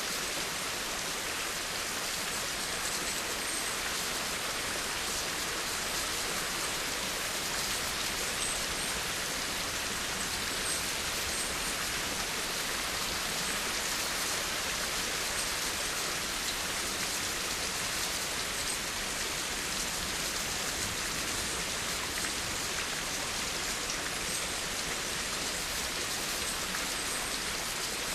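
Steady rain falling, a dense even hiss of many drops with no pauses.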